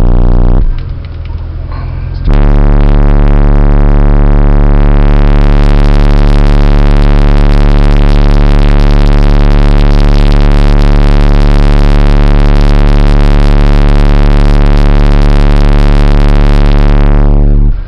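Truck subwoofers playing a steady bass test tone at extreme level for a TermLab SPL reading, so loud that the recording distorts into a buzz of overtones. The tone drops back briefly near the start, holds for about fifteen seconds, then cuts off just before the end; the run measures 147.3 dB with the windows shut.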